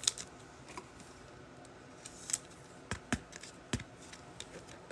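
Scattered sharp clicks and taps, about six in all, from handling and opening a hobby box of trading cards and its wrapping.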